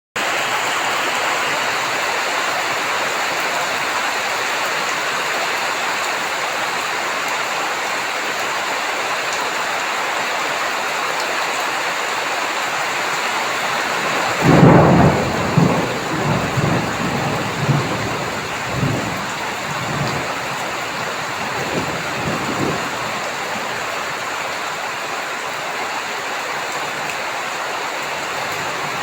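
Heavy rain falling steadily. About halfway through, a loud clap of thunder breaks out and rumbles on in several rolls for some eight seconds, fading back under the rain.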